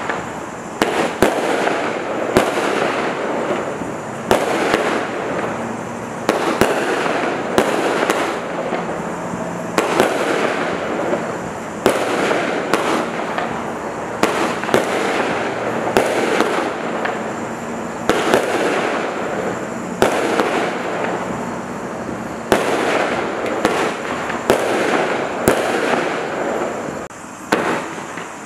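Firework barrage from Standard Fireworks' Reckoning pack firing shot after shot, about one every one to two seconds. Each shot is followed by a second or two of crackling, and it dies down near the end.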